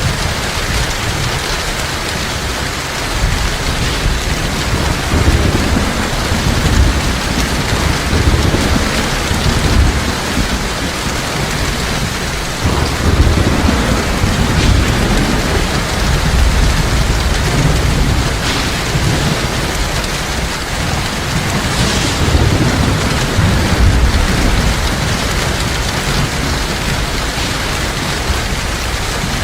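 Heavy rain falling steadily, with low rumbles of thunder swelling and fading underneath.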